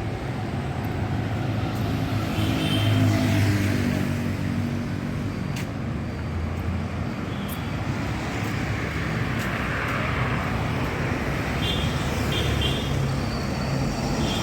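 Busy road traffic passing close by: steady engine and tyre noise from cars and heavier vehicles. One vehicle passes loudest about three seconds in.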